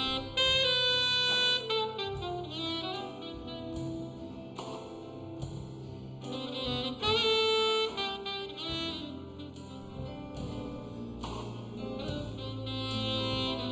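Big band swing jazz with saxophones and brass playing the tune over a steady drum-kit beat.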